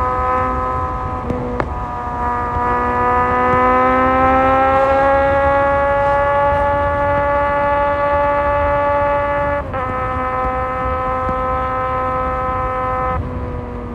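Kawasaki Z1000 inline-four motorcycle engine running under way at a steady throttle, its pitch climbing slowly. The pitch steps down abruptly about ten seconds in, and the engine drops lower and quieter about a second before the end.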